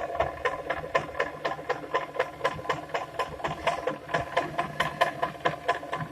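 Getrag S6S 420G six-speed manual gearbox turned over by a rotary hammer drill, knocking about five times a second over the steady hum of the drill motor. The knock appeared after the gearbox was rebuilt and sounds as if it is being hit with a hammer from inside; its cause has not been found.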